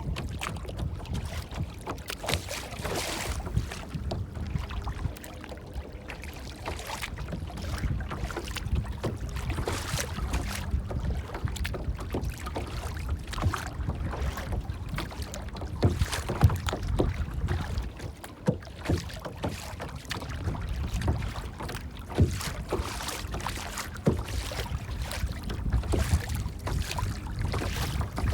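Water splashing and lapping in irregular short splashes, over a steady low rumble of wind on the microphone.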